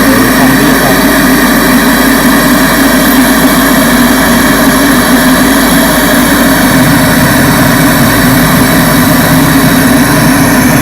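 Loud, steady drone with no breaks, from a Thai rot hae sound truck while its sound system is being tuned, near the limit of the recording.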